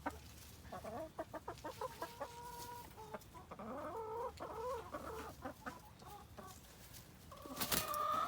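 Domestic hens clucking with short, pitched calls on and off. A single sharp knock comes near the end.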